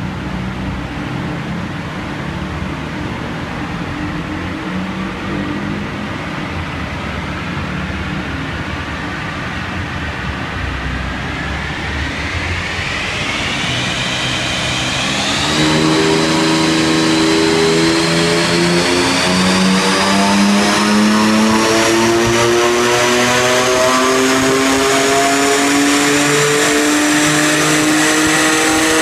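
BMW M4's twin-turbo straight-six engine under load on a chassis dyno: it runs steadily at low speed in gear for about twelve seconds, a high whine rises, and about fifteen seconds in the throttle opens wide and the engine gets louder, its pitch climbing slowly and steadily through a full-power pull.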